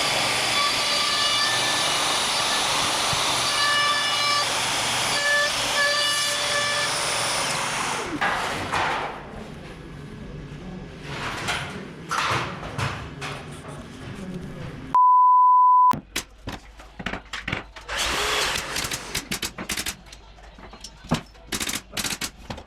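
A power tool running steadily with a whining tone, cutting off about eight seconds in. After it come scattered sharp knocks and clicks of work on wood, with a one-second electronic beep about fifteen seconds in.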